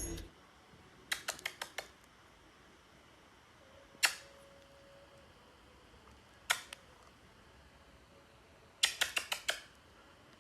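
Sharp clicks over a quiet background: a quick run of about six, a single click, another single click with a fainter echo-like second one, then another quick run of about six.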